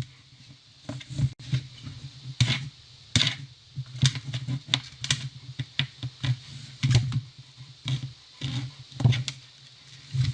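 Irregular light clicks and taps, coming in uneven clusters several a second.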